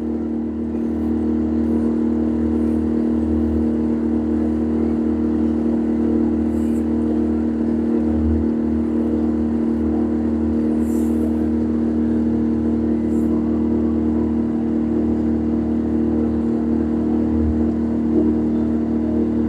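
Boat engine running at a steady speed: a constant drone over a low rumble.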